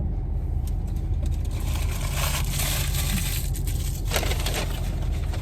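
Packaging crinkling and rustling in two spells, about two seconds in and again about four seconds in, over a steady low car-cabin rumble.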